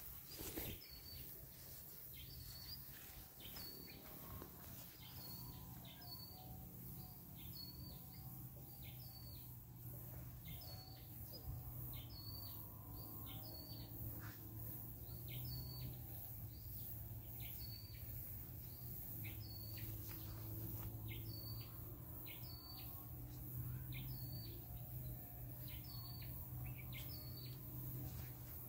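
A bird repeating a short, high call about once a second, with some calls coming in quick pairs. A faint, steady low drone runs underneath.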